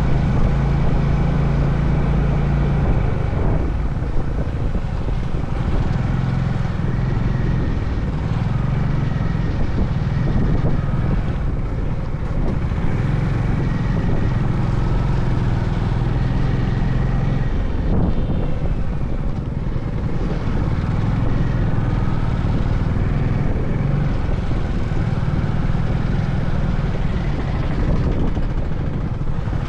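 Honda CB350 Highness's single-cylinder engine running while the motorcycle is ridden, its note shifting up and down with the throttle, with wind noise on the microphone.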